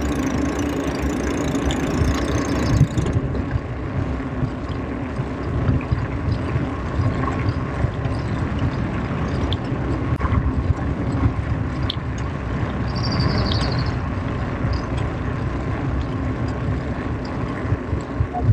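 Wind buffeting the microphone and a low rumble while riding a bicycle along a road, with a brief high chirp about two-thirds of the way through.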